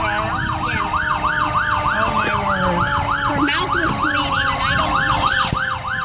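Emergency vehicle siren in a fast yelp, its pitch sweeping up and down about four times a second, with steady tones beneath it.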